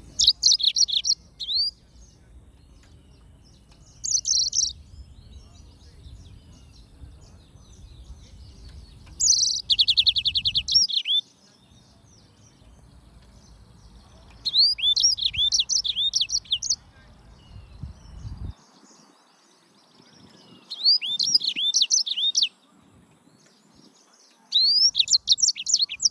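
Yellow-fronted canary singing in short bursts: about six quick phrases of chirps and fast trills, each a second or two long, with pauses of a few seconds between them. A faint low rumble runs underneath until about two-thirds of the way through.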